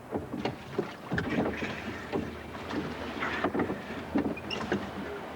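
Surf boat being rowed through the surf: irregular oar splashes and knocks over the noise of the sea, with wind on the microphone.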